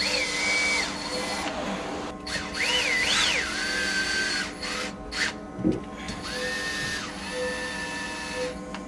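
Cordless drill-driver driving screws in three short runs. Each run starts with a whine that rises in pitch, then holds steady until the trigger is released.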